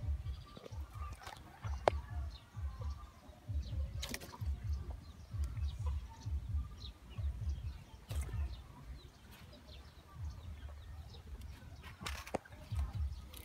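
Faint bird chirps over low, uneven rumbling on the microphone, with a few sharp clicks.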